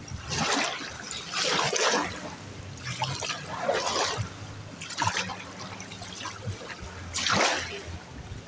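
Small sea waves washing onto the beach, a hissing wash that surges and falls back every second or two.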